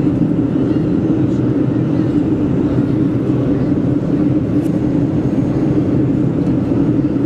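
Steady cabin noise inside a Boeing 737-400 during descent: its engines and the rush of air over the fuselage make an even, unbroken drone, centred on a low hum.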